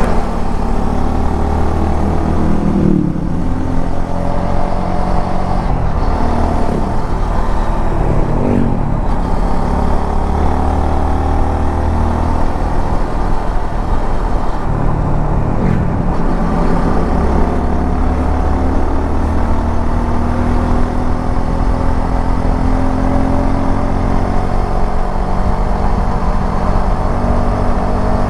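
Suzuki V-Strom 250 SX's single-cylinder engine running under way, its pitch dropping and climbing again several times as the bike is ridden, with steady road noise underneath.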